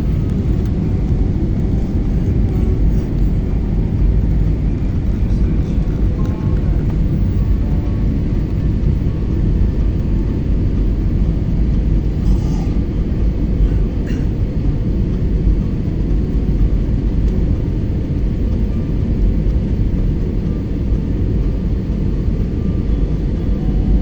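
Steady low rumble of an airliner heard from inside the cabin as it rolls on the ground after landing.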